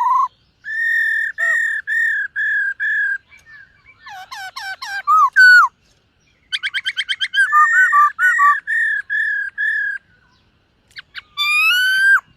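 Black-throated laughingthrush singing loud, clear whistled phrases: strings of repeated level notes, a quick run of short falling notes, and a rising whistle near the end.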